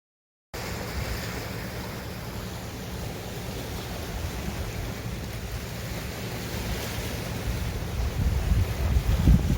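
Wind buffeting the microphone over the wash of sea waves on the shore, cutting in suddenly about half a second in and gusting harder near the end.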